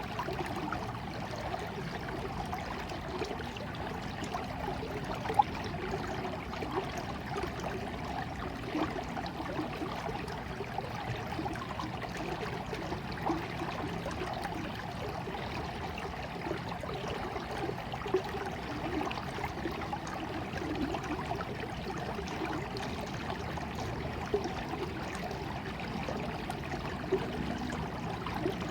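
Water in a small stream flowing and trickling steadily, with a few brief louder splashes or plops along the way.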